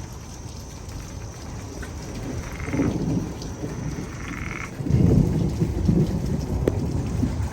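Thunderstorm with steady rain and rolling thunder; a louder thunder rumble breaks in about five seconds in. Frogs croak twice in the middle.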